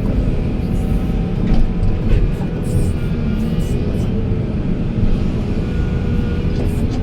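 Heavy diesel machinery running steadily: a deep engine drone with scattered short clicks and rattles on top.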